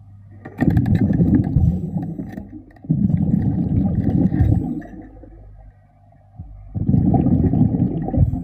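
Diver's exhaled breath bubbling out of the regulator underwater, a low rush of bubbles three times, each about two seconds long.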